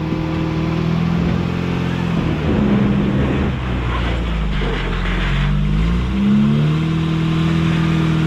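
Engine of a lifted 1986 Toyota pickup crawling forward over rocks, its revs rising and falling under load. It revs up about two and a half seconds in, drops back, revs up again about six seconds in and then holds steady.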